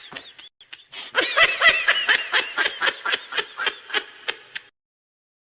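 Laughter meme sound clip: a person snickering in quick repeated bursts, loudest soon after it picks up again, then fading and cutting off abruptly near the end.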